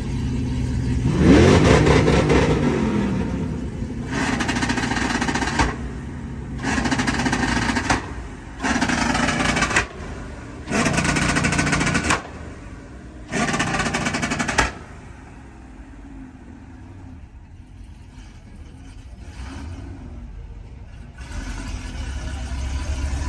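Truck engine revving with rising and falling pitch, then five short bursts of about a second and a half each, starting and stopping sharply, before it settles lower.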